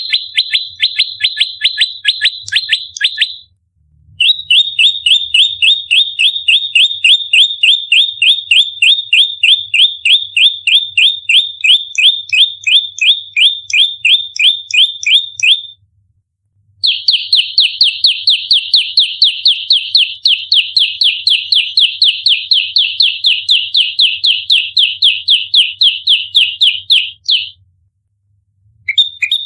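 Prenjak lumut, a small prinia, giving its rapid-fire fighting call: sharp, high notes repeated about five times a second in long unbroken runs. Three runs are separated by pauses of about a second, near the start, mid-way and near the end.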